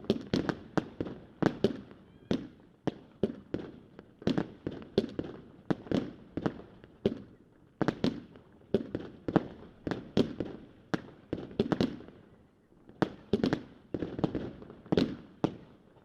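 Consumer fireworks going off in a rapid string of sharp bangs, about two to three a second, each followed by a short echoing tail, with a brief lull about twelve seconds in.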